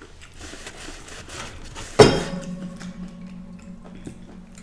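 Crunchy chewing of deep-fried scallops close to the microphone, then one sharp knock on the table about two seconds in. A faint steady hum follows the knock.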